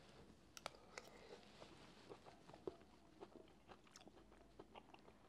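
Faint chewing of a mouthful of cooked soup vegetables, cauliflower among them: scattered soft clicks and crunches several times a second.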